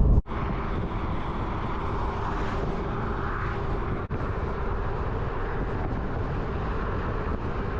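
Steady road and wind noise of a vehicle driving at highway speed. The sound cuts out for an instant just after the start and again about four seconds in.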